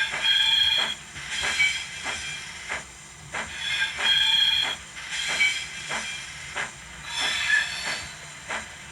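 Recorded steam locomotive sound from an ESU LokSound v5 decoder, played through a model locomotive's small speaker. It gives steady exhaust chuffs at about three every two seconds, and over them the F9 flange squeal comes in five short high-pitched screeching bursts.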